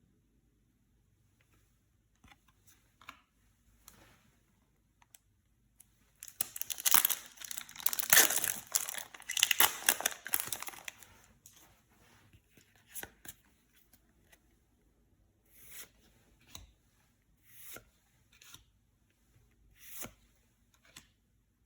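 Plastic card-pack wrapper being torn open, a loud ripping and crinkling for several seconds, then short crinkles and snaps as the wrapper and cards are handled.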